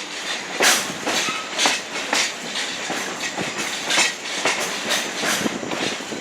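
Vintage passenger coach rolling along the track behind a steam train, its wheels clacking over the rail joints in a steady, uneven string of sharp clacks over a running rumble.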